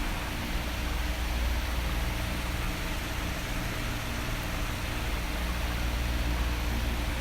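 Electric fan running, a steady whooshing hiss of moving air over a low hum.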